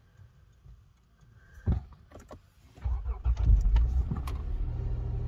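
A few clicks as the ignition is switched on, then the Lexus GS300's V6 engine cranks, catches about three seconds in and settles into a steady idle.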